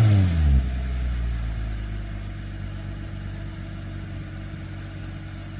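2009 Lexus IS250's 2.5-litre V6 through a Tanabe Revel Medallion cat-back exhaust. The engine drops back from a brief rev in the first half-second, then idles steadily with a low, slightly louder-than-stock note.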